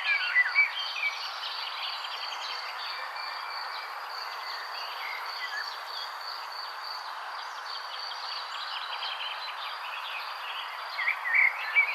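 Songbirds chirping in quick twittering phrases, loudest at the start and again near the end, with faint trills in between, over a steady background hiss and a constant high-pitched buzz.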